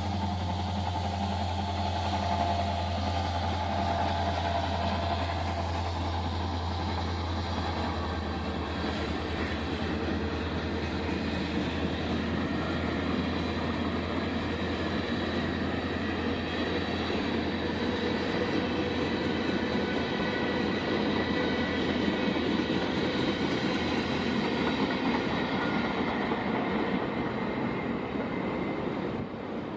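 A train rolling past on the track: a continuous steady rumble of rail cars with a low hum underneath and faint high wheel squeal.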